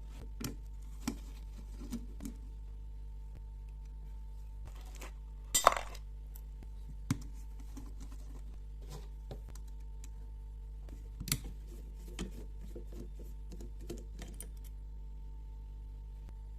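Small metal carburetor parts being handled and set down: scattered taps and clinks, with two sharper clinks, one about six seconds in and one about eleven seconds in, over a steady low hum.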